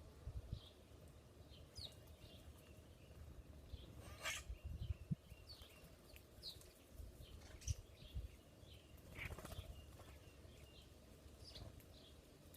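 Faint, scattered short chirps of small songbirds, with occasional low thuds.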